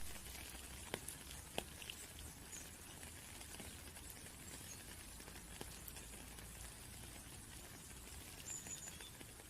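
Rain falling in a steady patter, with individual drops tapping sharply now and then, most often in the first two seconds.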